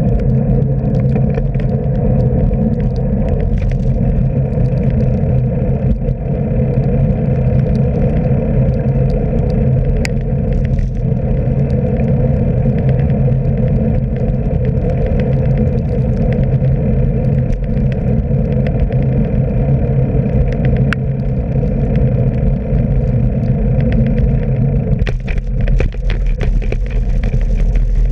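Steady low rumble of wind and road noise from a bicycle ride, picked up by a camera carried on the bike or rider. A few sharp clicks stand out, and a hiss joins in about 25 seconds in.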